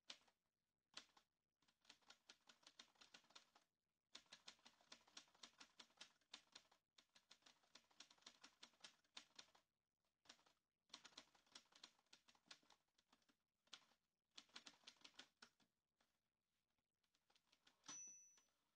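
Faint rapid clicking in several runs of a few seconds each, with short pauses between, and a short high ring near the end.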